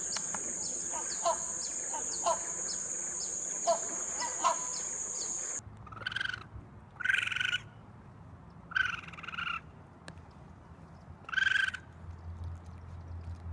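Recorded animal calls. Quick chirps sound over a steady high-pitched drone, then the sound cuts to four loud, harsh calls, each about half a second long and a second or two apart.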